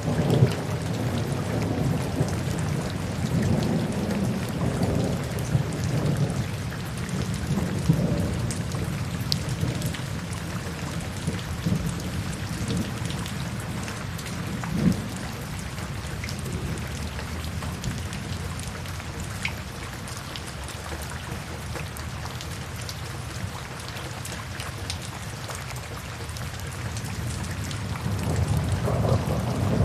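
Steady rain falling, with low rolling thunder rumbling through the first several seconds and building again near the end.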